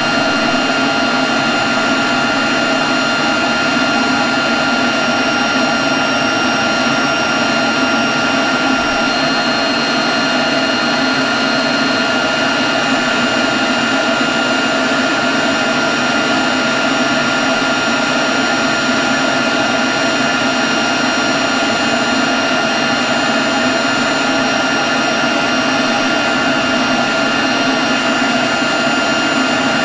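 Leaf blower running steadily at constant speed: a dense rush of air with a fixed high whine over it.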